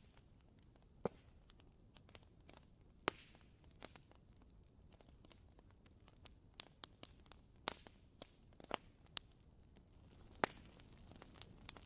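Wood fire crackling: irregular sharp pops and snaps of burning wood over a faint steady hiss.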